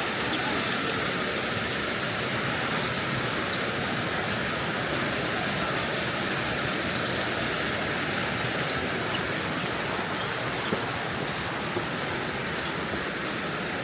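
Steady rushing of water, an even hiss with no rhythm, with a couple of faint drips or ticks near the end.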